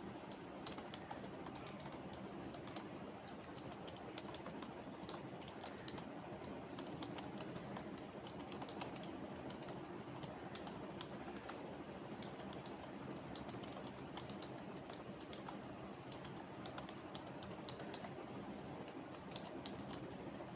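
Computer keyboard typing: irregular runs of quick key clicks with short pauses between them, over a steady background hiss.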